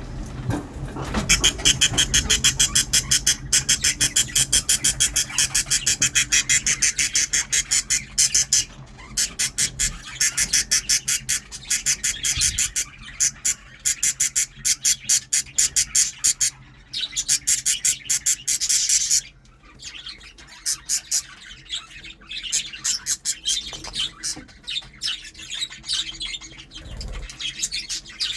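Pet lovebirds chirping in quick, shrill runs, many calls a second, loud for most of the stretch and dropping to softer, scattered chirps after about 19 seconds.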